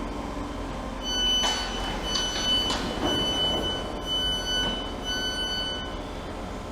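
A train's door warning alarm sounding: about five high electronic beeps, roughly one a second, some with a lower second tone, over station background hum.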